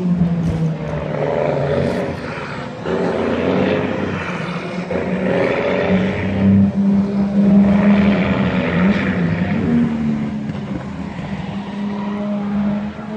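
Heavy truck engines running, their engine note rising and falling over a steady low hum.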